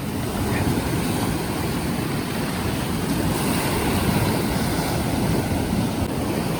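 Surf breaking and washing in, with a boat's outboard motor running and wind buffeting the microphone.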